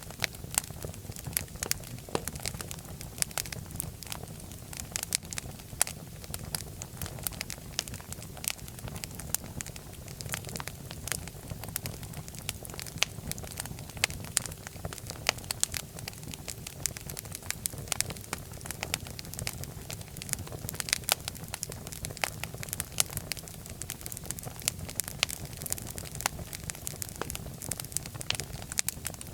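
Wood fire burning in a fireplace: a steady low rumble of flames with many sharp crackles and pops, several a second.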